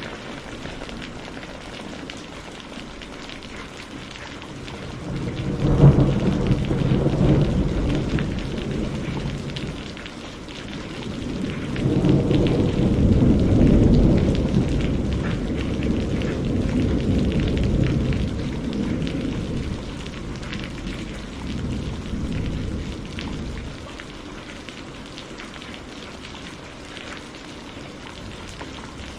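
Steady rain falling through a thunderstorm. About six seconds in, a sudden thunderclap rumbles off over a few seconds. A second, longer roll of thunder swells and fades over about ten seconds before only the rain is left.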